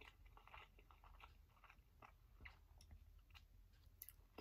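Faint close-up chewing of a homemade fresh spring roll, heard as soft, irregular mouth clicks.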